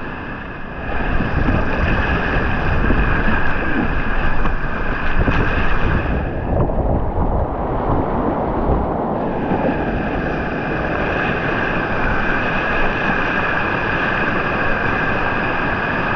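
Steady rush of whitewater rapids, with wind buffeting the microphone.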